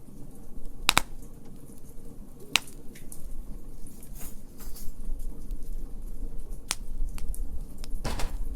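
Wood fire crackling, with irregular sharp pops about a second in, again near two and a half seconds and near the middle, and a denser run of crackles near the end.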